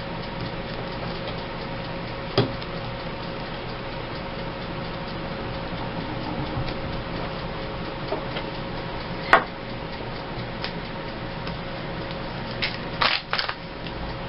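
Small handling noises at a craft table: a few sharp taps and clicks, once early, once midway and a quick cluster near the end, over a steady background hiss and faint hum.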